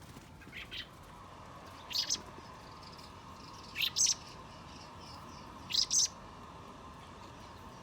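Baby bird chirping: short high chirps, some in quick pairs, about every two seconds.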